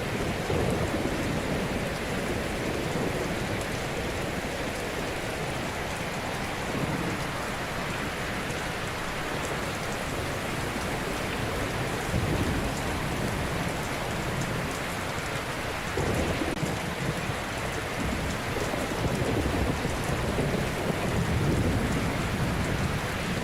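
Ocean surf: a continuous wash of breaking waves. Louder, deeper swells come as waves crash, about a second in, around the middle and again several times near the end.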